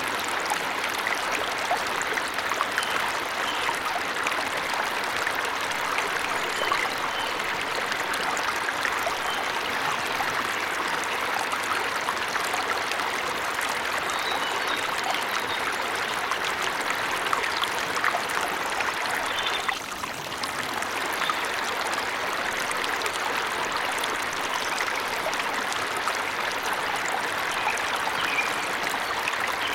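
Forest waterfall rushing steadily, with a few faint bird chirps above the water; the water sound dips briefly about two-thirds of the way through.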